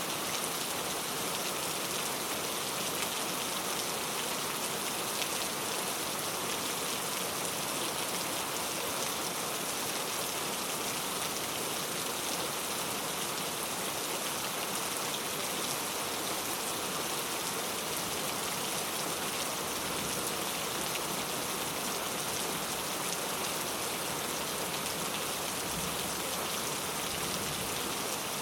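Steady rain falling, a dense, even hiss of many fine drops that holds unchanged throughout.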